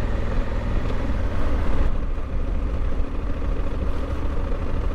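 Honda Africa Twin 1100's parallel-twin engine running steadily at low speed as the motorcycle is ridden along a dirt track.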